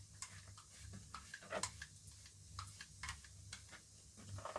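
Wood fire crackling in a newly built open fireplace: faint, irregular sharp pops and ticks over a steady low hum.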